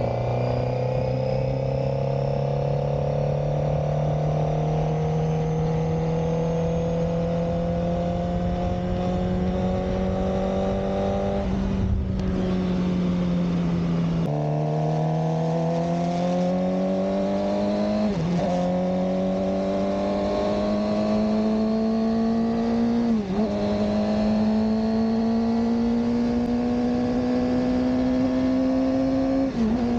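Suzuki GSX-R600 K7's inline-four engine pulling under acceleration, its note climbing slowly for about eleven seconds, falling away around twelve seconds in, then climbing again. Near the end the rising note breaks briefly three times, dipping and picking up again.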